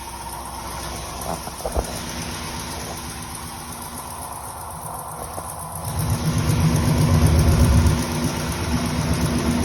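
Chevrolet 350 small-block V8 running at idle, making a noise the owner cannot identify. About six seconds in it grows louder for a couple of seconds, then eases back.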